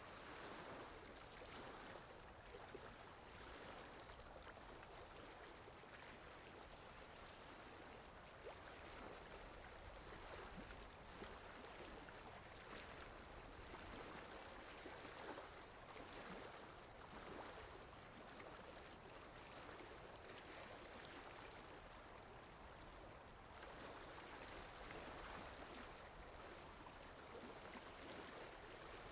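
Steady rain falling, a soft, even hiss that swells and eases gently every few seconds.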